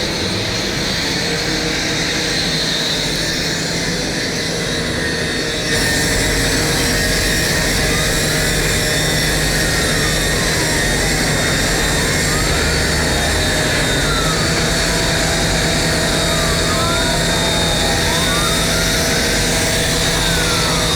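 Fire trucks' engines running with a steady drone. About six seconds in it grows louder, and siren wails rise and fall over it.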